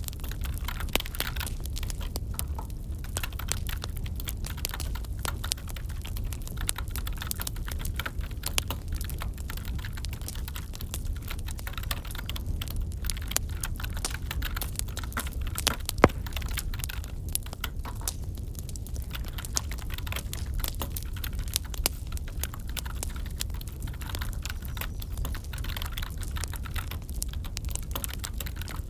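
Wood fire crackling: dense, irregular small pops over a steady low rumble, with one sharper pop about halfway through.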